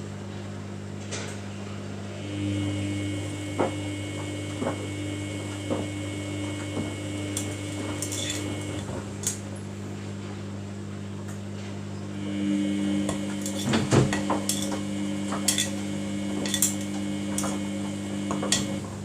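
Samsung washing machine in its wash cycle: the drum motor whines as it turns for about six seconds, pauses, then turns again from about twelve seconds in. Light clinks and knocks come from the tumbling load, over a steady low hum.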